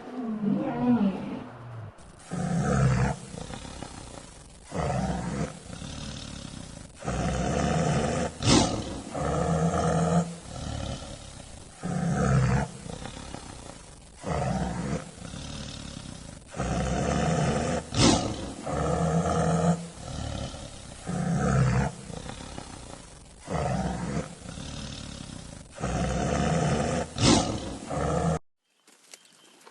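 A large wild cat roaring over and over in deep, repeated calls about every second or two, cutting off abruptly near the end.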